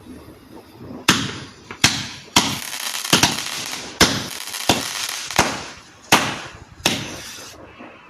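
Fireworks going off in a regular string of about ten sharp bangs, roughly one every 0.7 seconds starting about a second in, each bang trailing off briefly.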